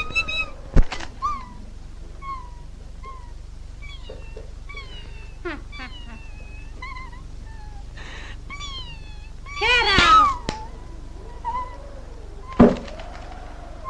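Cartoon animal voice effects: a string of short calls, each dropping in pitch, with a louder run of calls about ten seconds in. Sharp knocks come about a second in and again near the end.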